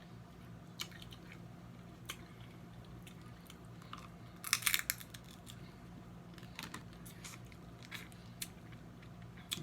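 Close-up eating of snow crab legs: scattered sharp clicks and crunches of shell and chewing, with a louder quick run of cracks about halfway through.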